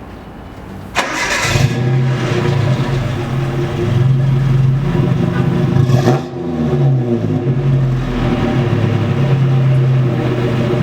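Nissan Hardbody mini-truck's four-cylinder engine with a Flowmaster exhaust, started about a second in and then running steadily, with a brief dip and pickup in the throttle a little past the middle.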